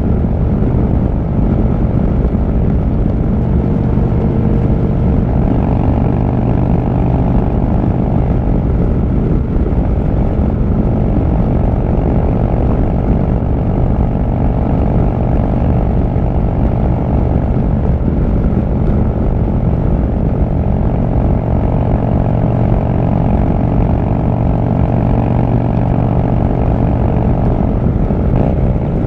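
Harley-Davidson V-twin motorcycle engine running steadily while riding at cruising speed, heard from the rider's seat.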